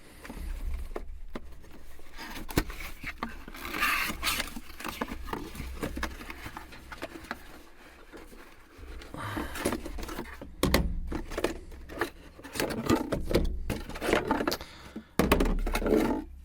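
Plastic and silicone produce storage containers being handled and unpacked: irregular scrapes, clicks and rustling, busier in the second half.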